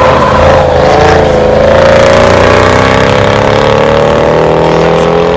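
Mercedes-Benz E55 AMG's supercharged 5.4-litre V8 running hard as the car passes and heads off down the straight. It is a loud, continuous engine note that sinks slightly in pitch as the car draws away.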